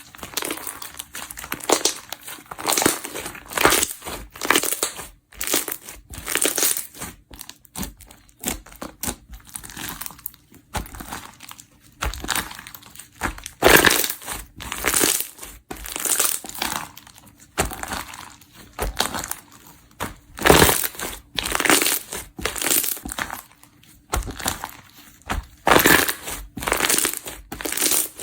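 Slime being squeezed, pressed and stretched by hand, making irregular bursts of sticky, squishing noise several times a second, with a few louder presses.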